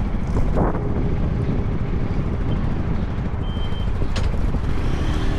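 Motorcycle running on the road, a steady low rumble with wind buffeting the microphone and a few short knocks.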